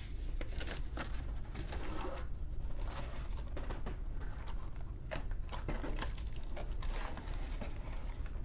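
Toy packaging being handled: plastic and cardboard rustling, with irregular clicks and short scrapes.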